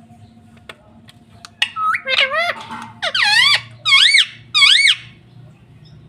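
Pet parrot giving a run of about five shrill squawking calls, each rising and falling in pitch, starting about a second and a half in, after a few faint clicks.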